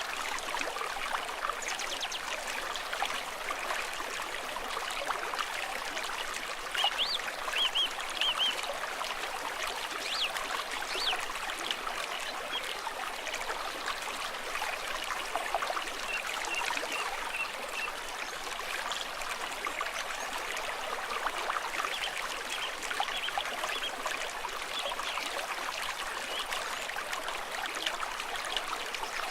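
Small stream trickling and babbling steadily over stones, with a few brighter splashy sounds about seven to eleven seconds in.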